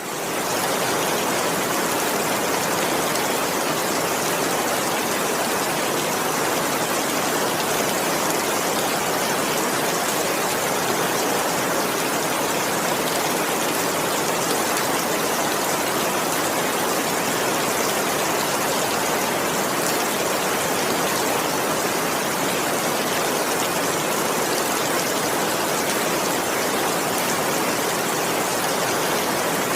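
Heavy rain falling in a steady, even hiss with no thunder, fading in over the first half second.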